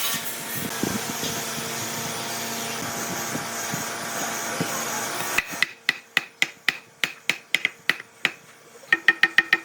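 Hand work on wood: a steady scraping or rubbing for about five seconds, then a run of sharp, even taps at about four a second, with a quicker cluster of taps near the end.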